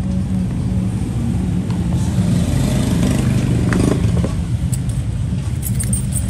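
A motor vehicle's engine running close by, its sound swelling in the middle and easing off again, like traffic passing. A few small clicks come near the end.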